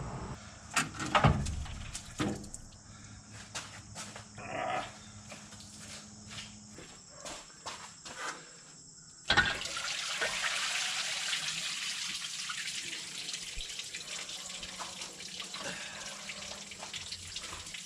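A few metal clinks and knocks, then about halfway in a sudden steady rush of running liquid that slowly eases off.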